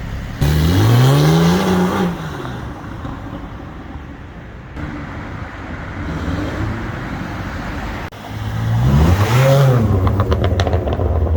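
A supercar's engine revved hard twice, each time rising in pitch and then falling back, with a steadier, quieter engine sound between the two. After the second rev, a rapid string of exhaust crackles and pops comes on the overrun.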